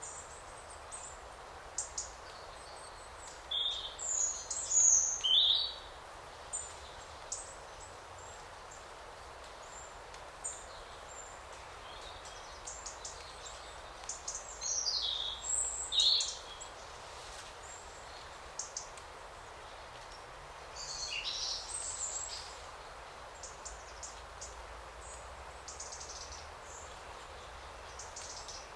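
Forest birds calling: scattered short chirps, with three louder bursts of sweeping, falling whistled notes about four, fifteen and twenty-one seconds in, over a steady background hiss.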